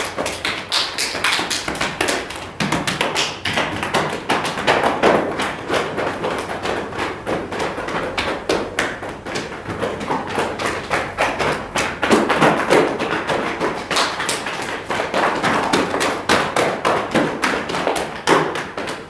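Rapid, irregular tapping and thudding, many strikes a second, keeping up throughout.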